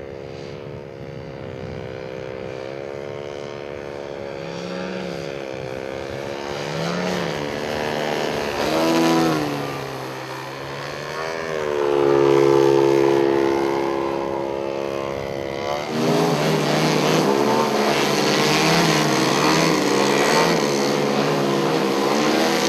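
Large-scale gas-engined RC airplane engine and propeller flying past, its pitch rising and falling as it passes and loudest about halfway through. About two-thirds of the way in the sound changes abruptly to another steady engine sound.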